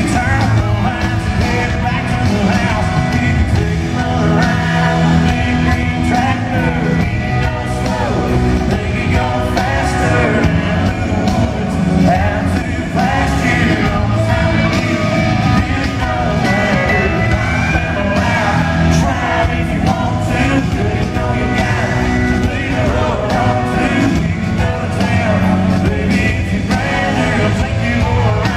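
Live country band playing a full arena concert, with a male lead vocalist singing over drums and electric guitars, and some yells from the crowd.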